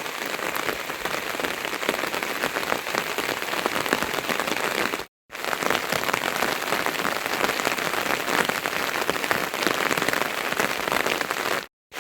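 Steady heavy rain with dense patter of drops, cut by a brief silent gap about five seconds in and another just before the end.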